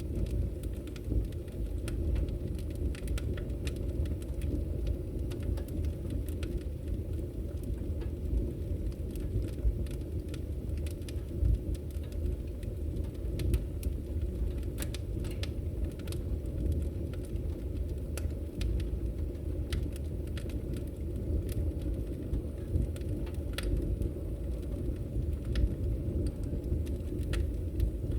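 Wood fire crackling in a fireplace: a steady low rumble of burning with scattered, irregular sharp pops and snaps.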